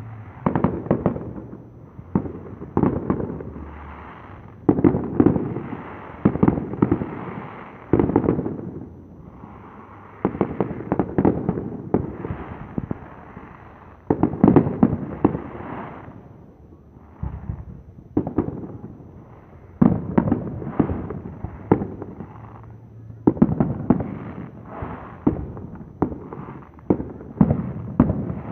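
Aerial fireworks display: shells bursting one after another in quick, uneven succession, each bang followed by an echoing tail and clusters of crackle, with a brief lull a little past halfway.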